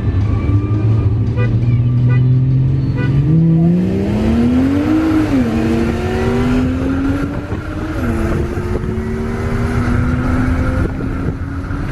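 Car engine accelerating hard, its note climbing steadily and dropping at an upshift about five seconds in and again about eight seconds in, then climbing again.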